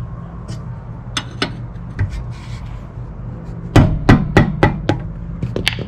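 Sharp metal-on-metal clinks and knocks of hand tools on a rear brake caliper as it is being removed. A quick run of about half a dozen loud, ringing strikes comes a little past the middle.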